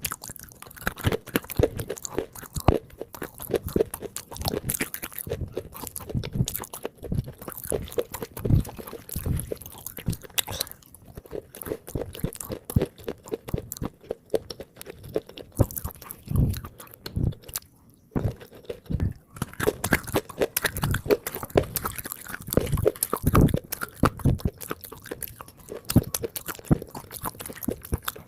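Biting and chewing of water-soaked red-grey khawa clay: a dense run of crunches and crumbling clicks, thinning out and quieter through the middle before picking up again.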